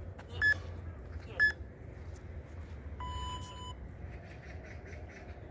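Electronic timer beeping a countdown: two short high beeps about a second apart, then one longer, lower beep about three seconds in, over a steady low hum.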